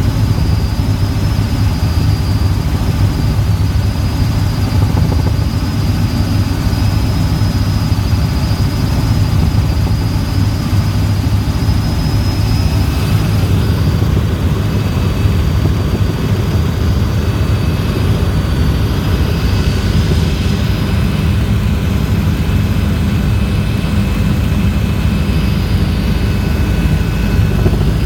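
Helicopter in flight: a steady engine and rotor noise, with a thin high whine held above it.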